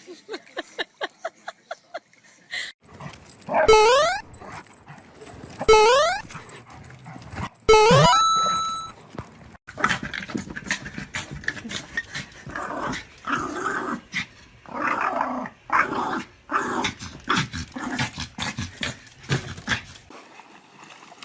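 Dogs vocalising: a quick run of high yips, then three loud rising yelps about two seconds apart, then a long stretch of irregular growling.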